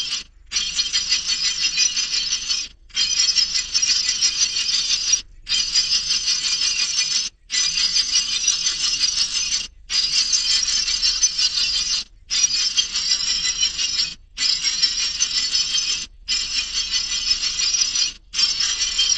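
Dense high-pitched bird chirping and chattering, in bursts of about two seconds separated by short breaks, repeating evenly like a looped recording.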